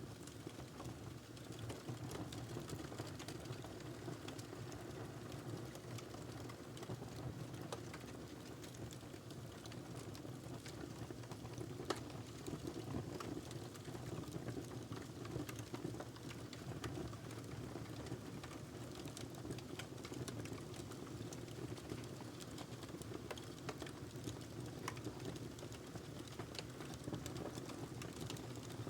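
Wood fire crackling in a fireplace: a steady low rumble with frequent small, sharp pops, one louder pop about twelve seconds in.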